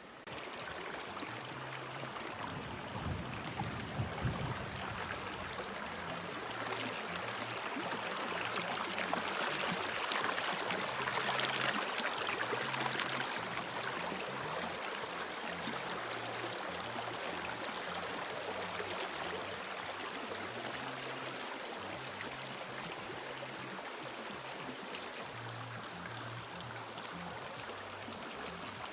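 Flowing creek water, a steady rushing that swells a little midway, under background music with a low, slowly changing bass line.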